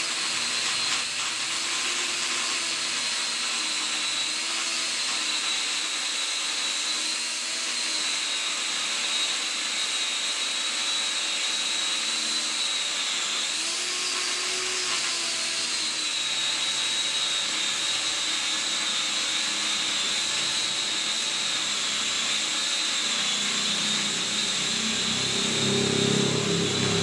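Firework burning with a steady hiss and a thin, wavering whistle over it; lower sounds join in near the end.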